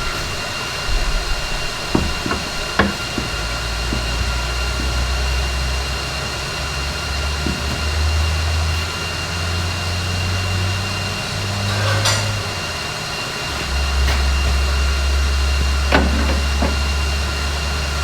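A motor-driven shop tool runs with a steady whine over a low hum, and winds down in pitch right at the end. A few sharp metal knocks or taps come through, near the start, about halfway and near the end.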